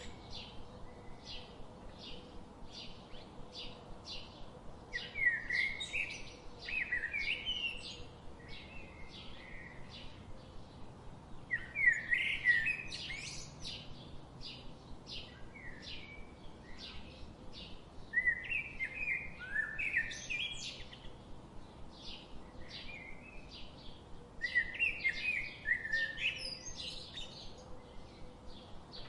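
Birds singing in a forest: a steady run of short chirps about twice a second, with louder warbling song phrases breaking in roughly every six seconds.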